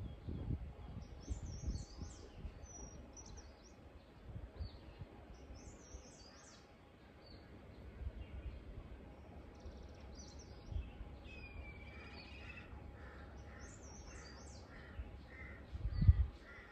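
Wild birds chirping and calling outdoors, with scattered short high chirps and a run of short repeated notes in the last few seconds. Low thumps are heard now and then, the loudest one just before the end.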